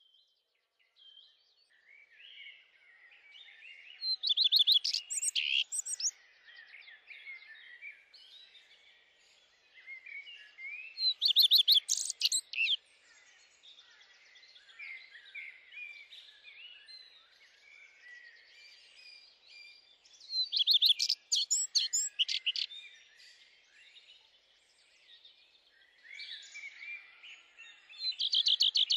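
Songbirds singing: a background of many small chirps and twitters, with one bird's louder trilled song phrase repeated four times, about every eight seconds.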